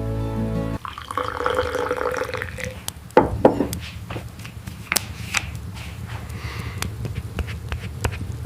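Water pouring for a couple of seconds, then scattered drips and small clicks, with two louder knocks about three seconds in. Background music cuts out about a second in.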